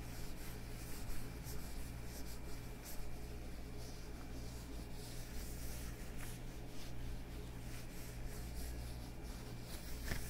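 Hands in leather gloves rubbing and brushing against each other close to the microphone, a run of short scratchy strokes.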